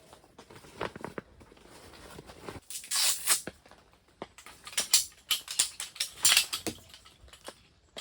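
Camping gear being handled and unpacked: rustling and tearing of packaging or fabric with scattered clicks and knocks. The loudest rustles come about three seconds in and again from about five to seven seconds in.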